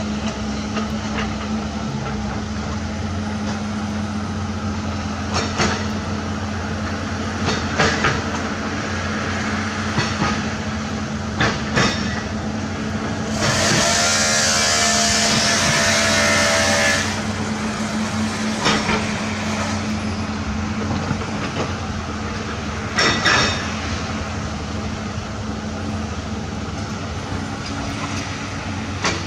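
Heavy diesel earthmoving machinery running steadily, with metal clanks now and then. About halfway through there is a loud hiss lasting a few seconds.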